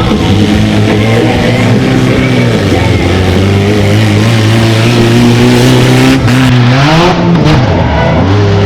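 Mini monster truck engine running at steady revs, revving up about seven seconds in, then dropping back.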